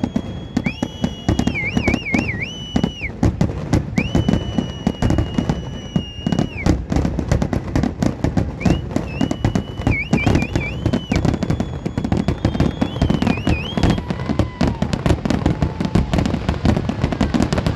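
Fireworks going off in a dense, continuous barrage of bangs and crackles. Over it, a high whistling tone comes and goes several times, holding steady and then warbling.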